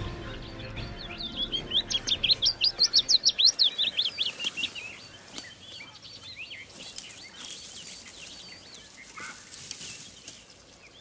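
A bird calling in a fast run of high, rising chirps, about five a second, for around three seconds, as background music fades out. After it comes faint rustling with a few sharp crackles, like brush and twigs being handled to build up a hide.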